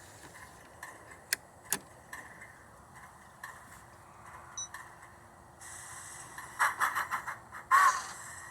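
G-scale model train running on dirty track: two sharp clicks early, then a steady hum picks up about two-thirds through and turns into rapid rhythmic pulsing, about six a second, with a short pitched tone near the end.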